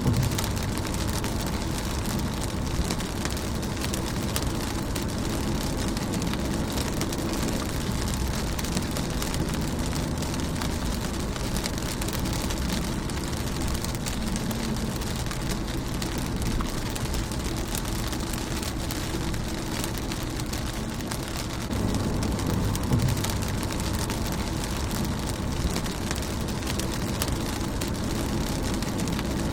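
Steady rain falling on a car's windshield, with many small drop ticks over an even hiss and a low rumble underneath. The low rumble swells for a few seconds about two-thirds of the way through.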